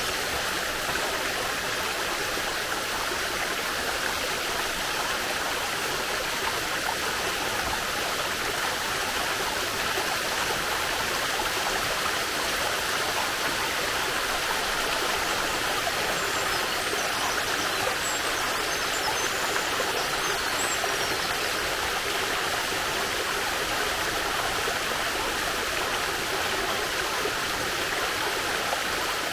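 Steady rush of a waterfall and mountain stream, white water running without change.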